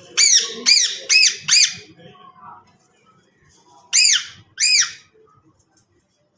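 Green parrot screeching: a quick run of four loud, harsh calls, each rising and then falling in pitch, then two more about four seconds in.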